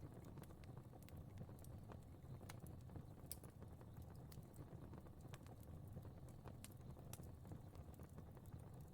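Faint fireplace fire crackling: irregular sharp pops and snaps, several a second, over a low steady rumble of the flames.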